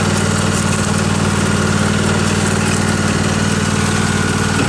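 Small tractor engine running steadily at an even speed, with a constant low drone.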